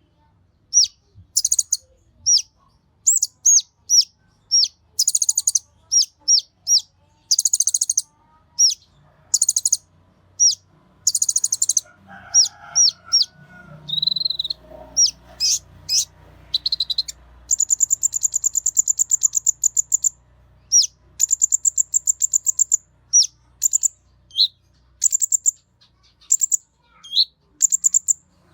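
Olive-backed sunbird (kolibri ninja) singing busily: a stream of short, high, sharp chirps and quick down-slurred notes, broken a little past the middle by fast high trills.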